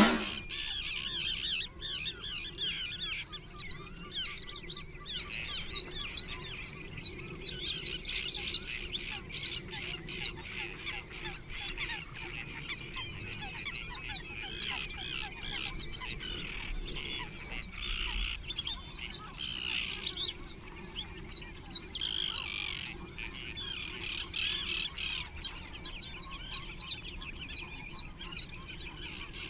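Small birds singing and chirping continuously, many quick high notes overlapping one another.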